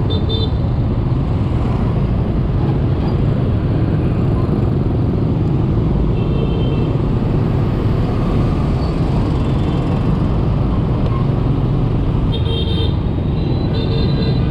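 Steady wind and road noise from a scooter riding through dense motorbike traffic, with short high-pitched horn beeps at the start, about six seconds in, and twice near the end.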